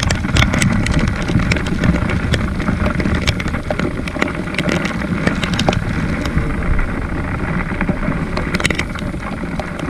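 Trail motorbike engine running steadily at low revs, with scattered sharp clicks and knocks over it.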